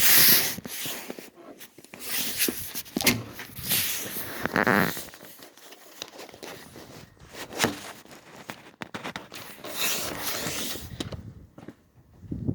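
Recoil-starter pull cord on a 1950s Briggs & Stratton engine yanked several times, each pull a short rasping zip, without the engine firing.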